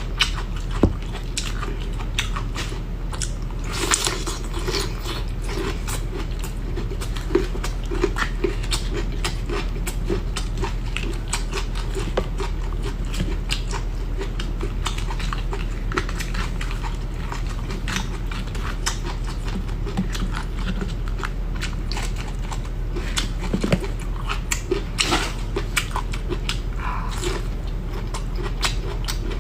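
Someone chewing and crunching spicy bamboo shoots, with many quick, irregular crisp clicks of biting and chewing over a steady low hum.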